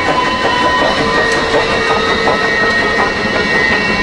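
Train running past: a steady rumble of railroad cars rolling along the track, with several steady high-pitched tones ringing over it.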